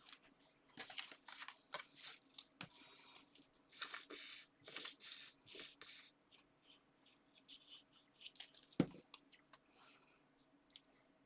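Paper and card being handled: a run of short rustles and scrapes, then a single sharp tap about nine seconds in.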